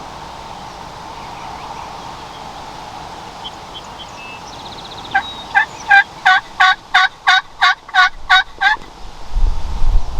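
Wild turkey yelping: a run of about a dozen evenly spaced yelps, roughly three a second, each note breaking downward. A low rumble comes in near the end.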